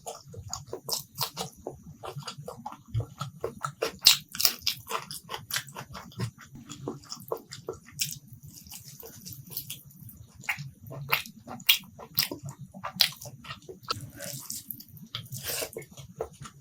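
A person eating a curry-and-rice meal: biting and chewing, heard as many short, irregular mouth clicks and smacks.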